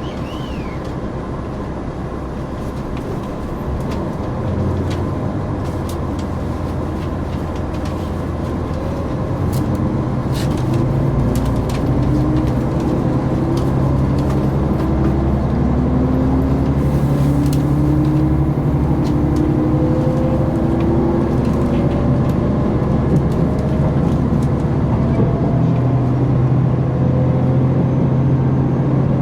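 KiHa 261 series diesel railcar's engine under power, heard from inside the carriage, its note rising repeatedly as the train accelerates and growing louder about ten seconds in.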